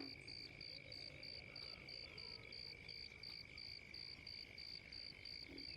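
Faint insect chorus, typical of crickets: a high chirp repeating evenly about three times a second over a steady, lower continuous trill.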